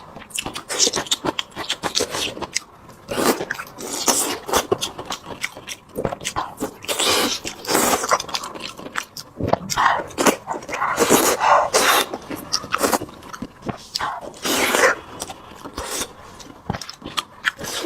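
Close-up chewing and mouth sounds of someone eating braised pork: irregular wet smacks and clicks, with louder bursts every second or two.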